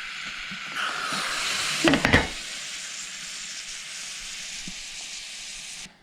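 Electric egg steamer hissing steadily as it steams, then cutting off suddenly near the end. There is a brief clatter about two seconds in.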